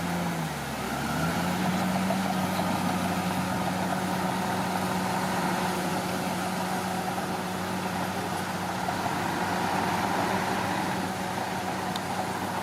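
Diesel engine of a Komatsu D41P crawler bulldozer running; its speed sags briefly at the start, climbs back within about a second and a half, then holds steady.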